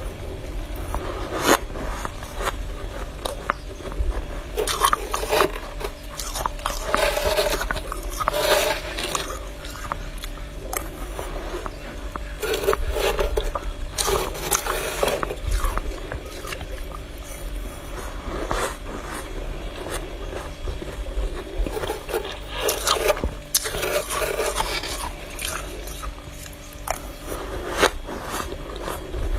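Soft freezer frost being scraped off a freezer's inner wall in repeated short strokes, coming in clusters with brief pauses between.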